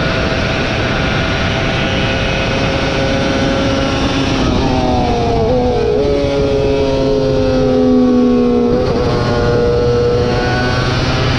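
Superbike racing motorcycle engine running hard under a rush of noise. The engine note drops about four and a half seconds in, sags slowly for a few seconds, then changes pitch sharply near nine seconds.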